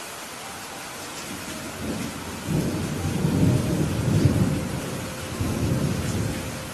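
Thunder rolling over steady rain: a low rumble builds about two seconds in, peaks in the middle, swells once more and dies away near the end, while the rain keeps up an even hiss.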